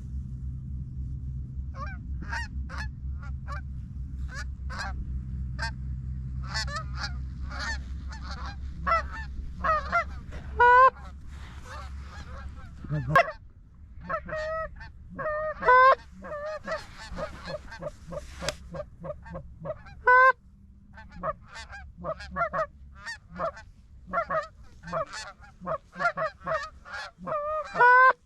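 Geese honking and clucking in a rapid, irregular string of short calls that grow busier in the second half. A low steady rumble sits under the first half and cuts off about halfway through.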